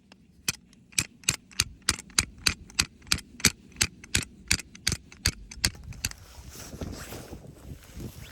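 A steady run of about sixteen sharp knocks, roughly three a second, then a rustling, hissing haze for the last couple of seconds.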